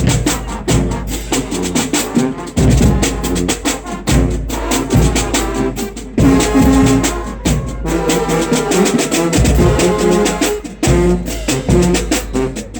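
Marching band playing: the brass section holds loud chords over a drumline's steady snare and bass drum strokes.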